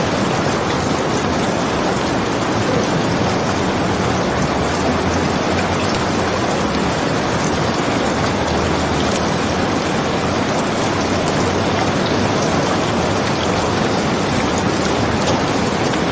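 Steady rain, a dense even hiss with no pauses, with faint scattered ticks over it.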